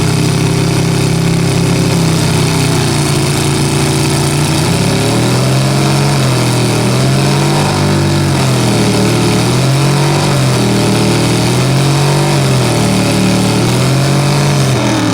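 Pickup truck engine running hard under load in a tug-of-war pull. Its pitch holds steady for about four seconds, then rises and falls over and over, about every second and a half.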